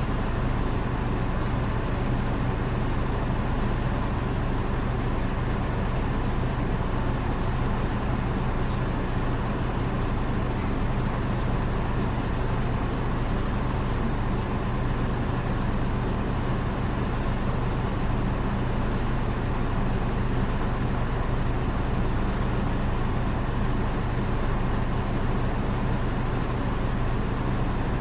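Onboard a PKG-RA274MAN city bus, its diesel engine running at a steady, unchanging speed with a constant low hum. This bus's engine note is known to differ from other buses of the same type.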